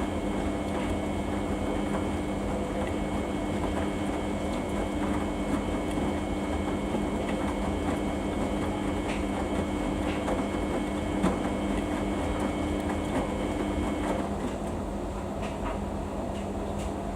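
Samsung washing machine running mid-cycle on a Daily 40 wash: a steady motor hum and rumble with a faint high whine. The hum and whine stop about three-quarters of the way through, leaving the lower rumble.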